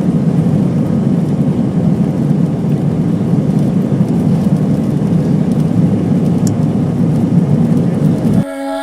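Steady jet engine and airflow rumble heard inside the cabin of an Airbus A319 in flight. The rumble cuts off abruptly near the end.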